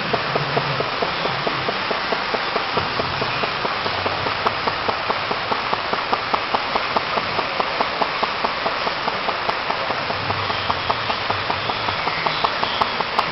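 Böhm HB22 flame-eater (vacuum) engine running steadily, its valve and piston clicking in a fast, even rhythm over a constant hiss.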